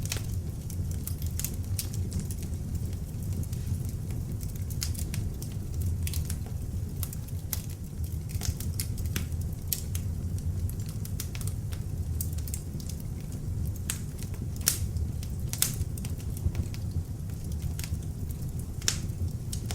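Beech-wood log fire burning in an open fireplace: a steady low rumble of flames with frequent sharp, irregular crackles and pops from the wood, a few louder pops in the second half.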